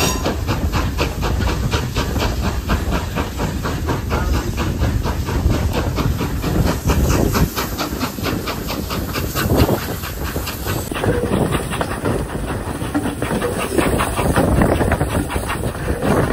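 Pannier tank steam locomotive working a train: a quick, even beat with steam hissing over the rumble of the train. The sound changes abruptly about two-thirds of the way through.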